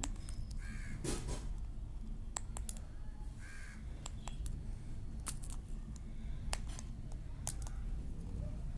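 Parrots giving harsh squawks: one short call near the start and another about three and a half seconds in. Scattered sharp clicks and a steady low rumble run underneath.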